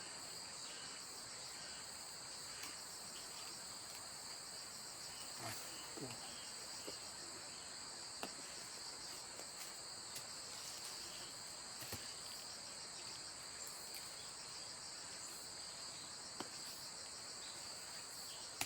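Field insects, crickets by the sound of it, trilling steadily at a high pitch. A few faint scattered clicks and small knocks come through now and then.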